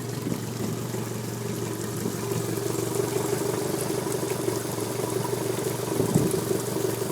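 Twin Suzuki outboard motors running steadily at idle, out of gear. A short low bump about six seconds in.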